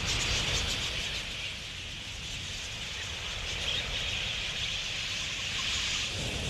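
A large flock of wild budgerigars chattering steadily, with a low rumble underneath.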